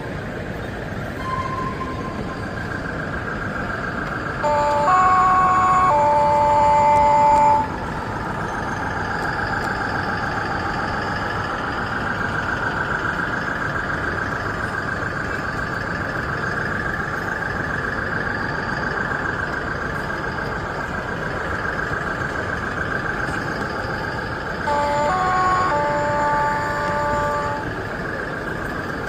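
Sound-fitted model locomotive or layout sound system. A steady warbling hum runs throughout, and a two-tone horn sounds twice, each time a higher chord followed by a lower one held for a second or two.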